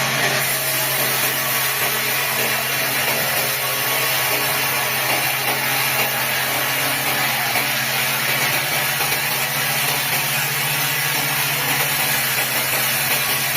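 Sawmill machinery running steadily: a constant low hum under broad, even noise, with no breaks or changes.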